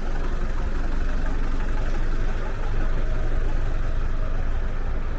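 Strong wind buffeting the microphone: a steady low rumble under a constant rushing hiss.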